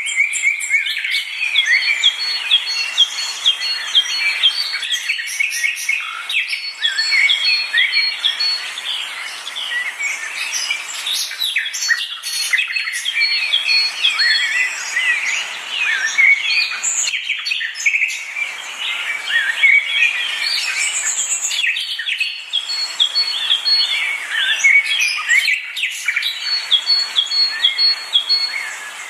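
Chorus of small birds chirping and singing continuously, many short overlapping calls and trills, with a rapidly repeated high note running through it.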